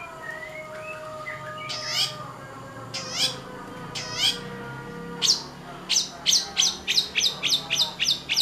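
Long-tailed shrike (cendet) giving harsh, downward-sweeping calls: a few spaced about a second apart, then from about five seconds in a fast, regular run of about three a second.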